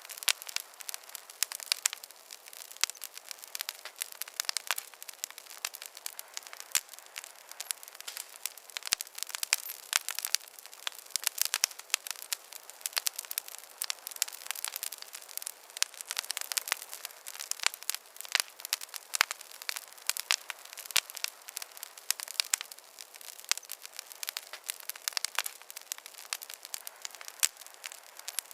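Wood fire crackling: a dense, irregular stream of sharp pops and snaps over a soft hiss.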